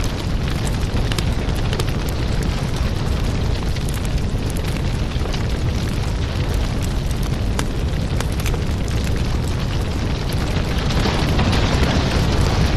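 Firewood burning: a steady low rush of flame with frequent sharp crackles and pops from the wood, swelling a little louder near the end.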